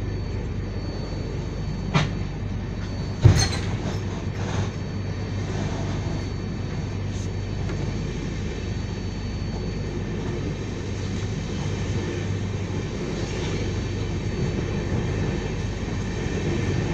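Passenger train running: a steady low rumble of the carriage and wheels on the track, with two sharp knocks about two and three seconds in.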